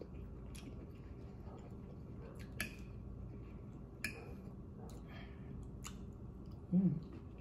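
Close-up mouth sounds of a person chewing green beans: soft wet clicks and smacks a few seconds apart, then a brief hummed "mmm" near the end.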